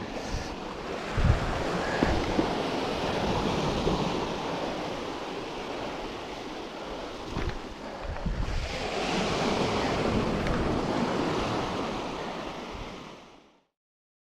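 Surf breaking on the shore with wind buffeting the microphone, the surf swelling louder for a few seconds before everything fades out to silence near the end.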